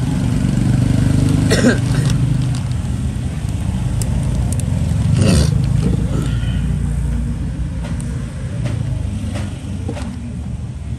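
Low engine rumble of passing motor traffic, swelling twice, with a few sharp clicks over it.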